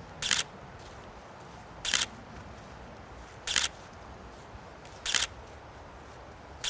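Camera shutter firing single shots, one sharp click about every second and a half, five times.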